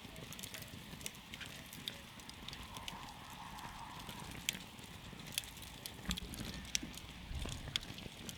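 Wood campfire crackling: frequent sharp, irregular pops and snaps over a steady low rumble of the flames.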